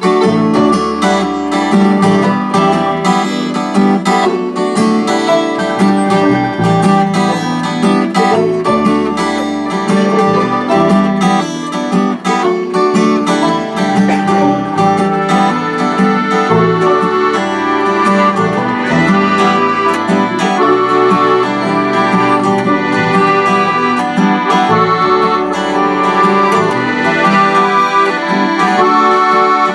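Live acoustic folk band playing an instrumental passage, led by strummed acoustic guitar over a moving bass line.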